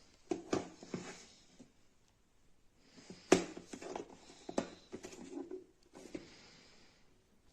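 Food storage containers and their lids being handled: a series of light clicks and knocks with some rustle, in two clusters, the sharpest knock about three seconds in.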